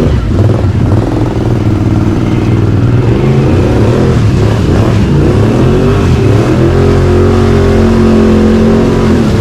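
Can-Am Outlander ATV's V-twin engine revving under load while pushing through deep mud, its pitch rising and falling. For the last few seconds it holds at a steady, higher pitch.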